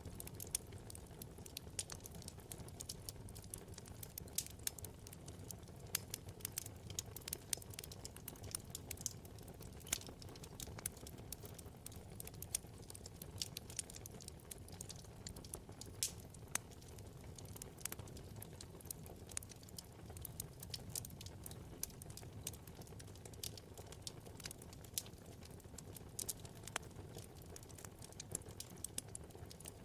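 Wood fire burning in a fireplace, the logs crackling with many small irregular pops and snaps over a low steady rumble of flame.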